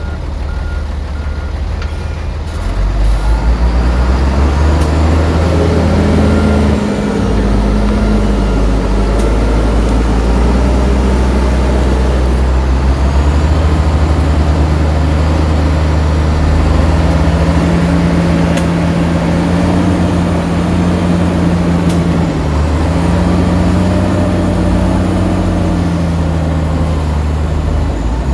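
Heavy diesel engines of earthmoving machinery working, revving up about three seconds in and then rising and falling in pitch under changing load.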